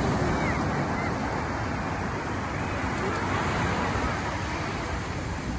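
Steady rush of surf and wind buffeting the microphone, with faint voices in the background.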